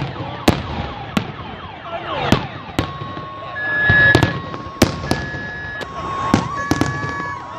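Fireworks display: sharp bangs about once a second, with a few whistling shells rising and falling. From about three seconds in, an alarm sounds alongside, alternating steadily between a low and a high tone.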